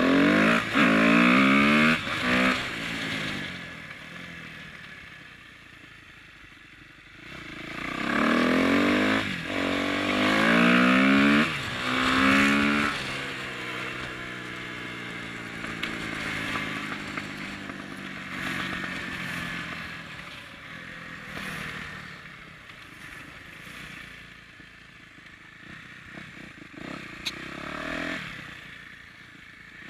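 Kawasaki KX250F single-cylinder four-stroke motocross bike accelerating hard twice, its revs climbing and dropping back in steps as it shifts up through the gears. Between the pulls it runs quieter at part throttle.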